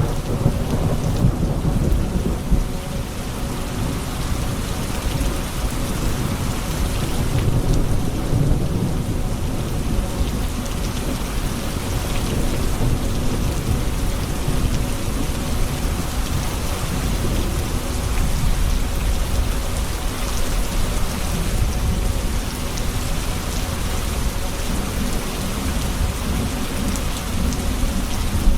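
Thunderstorm: steady heavy rain falling on surfaces, with low rolling thunder rumbling underneath that swells and eases.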